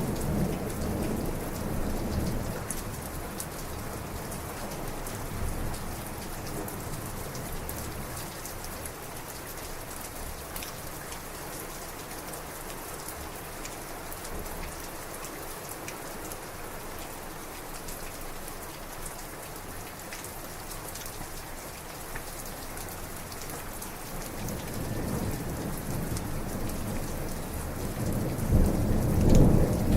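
Heavy rain falling steadily in a thunderstorm. Thunder rumbles at the start and dies away over the first few seconds, and another roll of thunder builds near the end, louder than the rest.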